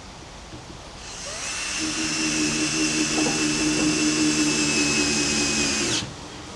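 A small electric motor starts about a second in, winds up to a steady whine with a low hum, runs for about five seconds and cuts off abruptly.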